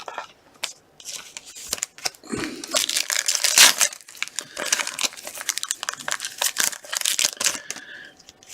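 Crinkling and tearing of a trading-card pack wrapper as it is handled and torn open, with sharp crackles, loudest about midway through.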